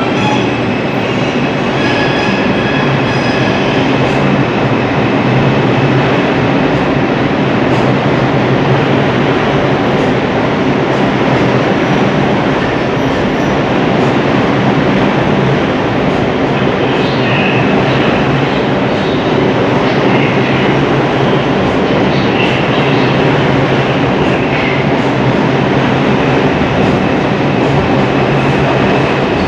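Train running on rails: a loud, steady rumble of wheels and running gear, with a few short high-pitched wheel squeals in the second half.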